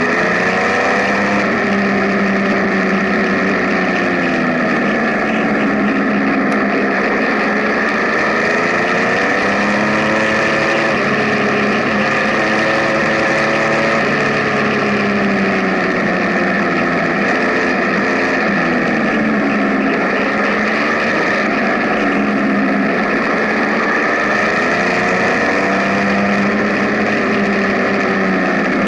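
Benelli TNT 1130 Café Racer's three-cylinder engine under way, its pitch rising and falling again and again as the rider accelerates and eases off, with a steady rush of wind and road noise.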